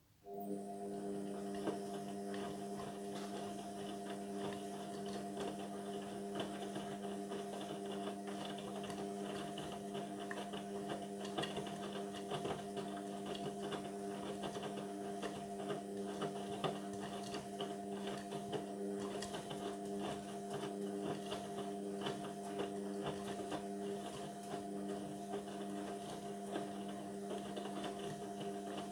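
Indesit washing machine part-way through its synthetics cycle: a steady electric hum starts abruptly just after the start and runs evenly, with light crackling over it.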